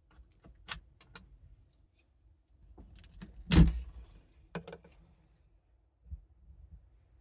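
Handling noises: a few sharp clicks, then one loud thump about three and a half seconds in, followed by more clicks and a softer knock near the end.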